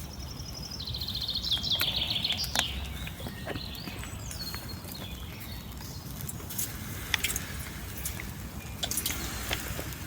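A songbird sings one short song of fast trills, each lower than the last, about a second in, over steady outdoor background noise. A few sharp clicks follow later.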